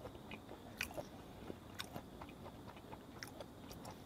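Faint chewing of raw yellowtail sashimi: soft, scattered wet mouth clicks and smacks.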